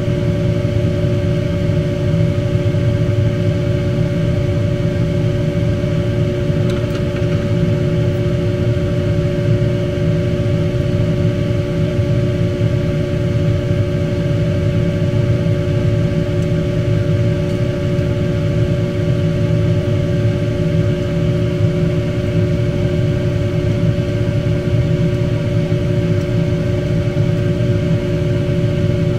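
Steady mechanical hum from a motor or fan, an unchanging low drone with two constant tones.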